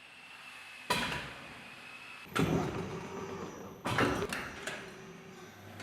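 Large powered sheet-metal folding machine working, bending steel handles: three heavy mechanical strokes about a second and a half apart, each starting suddenly and dying away, with a few smaller knocks after the third.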